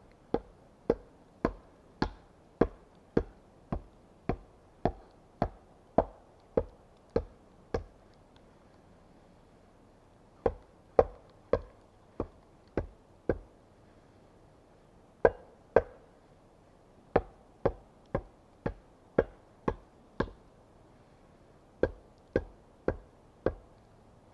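Repeated sharp strikes of a tool on wood, about two a second in runs of several, with short pauses between the runs.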